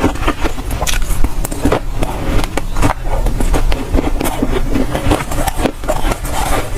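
Freezer frost crunching close to the microphone as it is bitten and chewed: a dense, irregular run of crisp crunches and scrapes.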